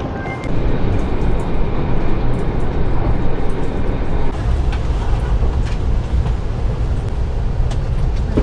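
Loud, steady rumble of a passing vehicle, which gets louder about half a second in and stays mostly low in pitch.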